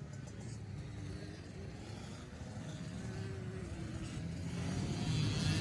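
Dirt bike engine running at a distance, with faint rising and falling pitch, growing louder toward the end as it approaches.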